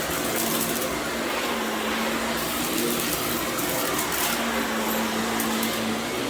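Vacuum cleaner running steadily over berber carpet with a constant motor hum, with scattered crackles of debris being sucked up.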